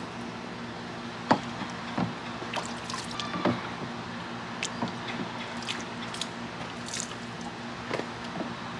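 Water splashing and dripping as a toddler plays in a plastic water table: scattered short splashes and drips, a few of them sharper, over a faint steady hum.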